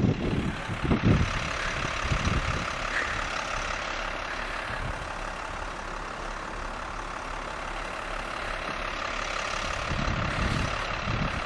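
A truck engine running steadily. Wind buffets the microphone near the start and again near the end.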